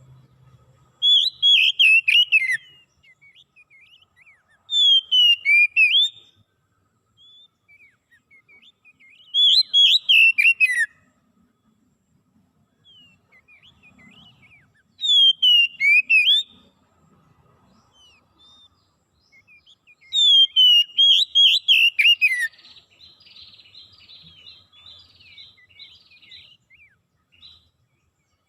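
A songbird singing in five loud, high phrases of rapid chirped notes, each about a second and a half long and coming roughly every five seconds, with soft scattered chirps in between. A fainter raspy twitter follows the last phrase.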